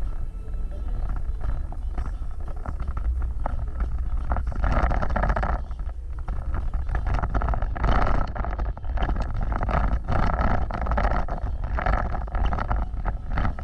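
Off-road vehicle driving over rough ground: a steady low engine-and-wind rumble, with recurring spells of rattling and crunching from the terrain and the vehicle's body.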